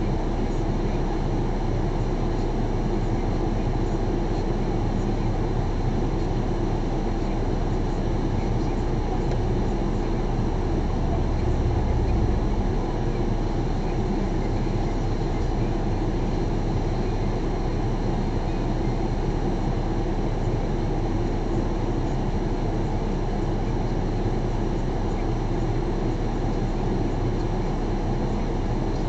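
Car engine idling steadily, heard from inside the stationary car's cabin, with a brief deeper swell about twelve seconds in.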